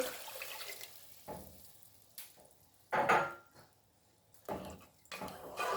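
Frying sizzle in a pot dying away just after heavy cream is poured over sautéed onions and mushrooms, then a few scrapes and knocks of a utensil stirring in the pot, the loudest about three seconds in.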